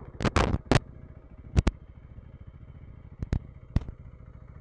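KTM enduro motorcycle's single-cylinder engine idling steadily, with several sharp knocks or clicks: a quick cluster at the start, then a few single ones spaced out.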